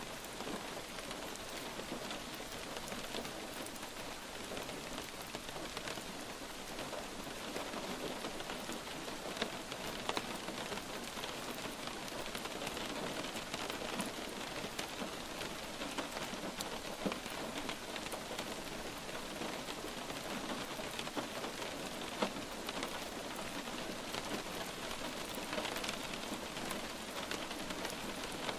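Light rain falling steadily on a surface, an even patter with scattered sharper drops standing out, a few louder ones near the middle.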